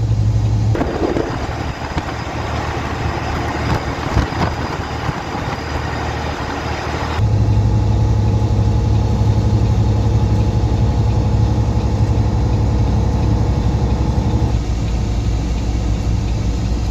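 Semi truck's engine running steadily, heard inside the cab as a low drone that shifts lower about fourteen seconds in. For several seconds near the start the drone gives way abruptly to a hissier rushing noise with a single click.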